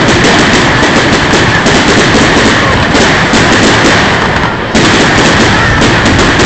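A large firework display going off in a dense, continuous barrage of bangs and crackles, loud and heard through a mobile phone's microphone. The barrage eases for a moment about four and a half seconds in, then comes back suddenly at full strength.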